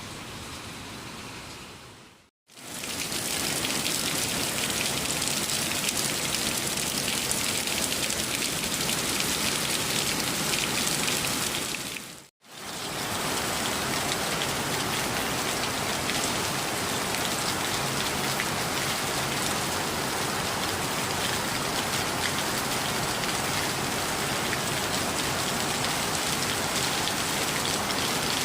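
Heavy rain falling in a steady, dense hiss. The sound drops out abruptly twice, about two seconds in and about twelve seconds in, and is louder after the first break.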